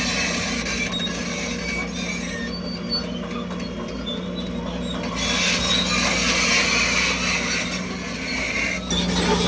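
Crawler bulldozer's diesel engine running steadily, with short high squeaks and rattling from its steel tracks.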